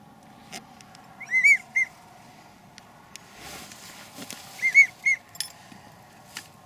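Wigeon whistle call: a three-note whistle given twice, the middle note of each set the loudest. A few soft clicks and rustles lie between the two sets.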